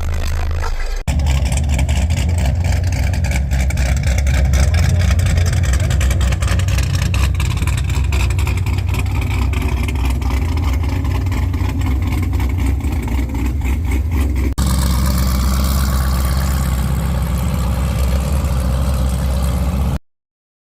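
Sundown ZV6 15-inch car-audio subwoofers playing loud, steady deep bass notes, with a rattle from the vehicle around them. It breaks off twice at cuts and stops abruptly near the end.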